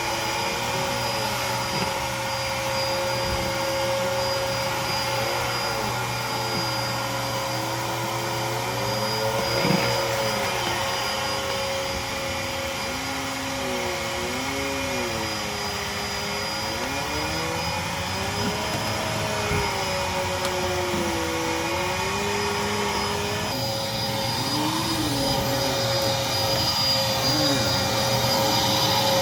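Dirt Devil Featherlite cyclonic bagless upright vacuum cleaner running while vacuuming: a steady motor whine over a rushing hiss, with lower tones that keep rising and falling as it works.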